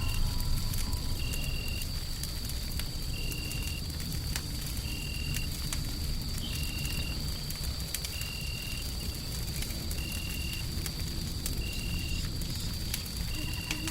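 Wood fire crackling with scattered sharp pops over a steady low rumble of white noise. A thin steady high tone runs underneath, and a short high chirp repeats about once a second.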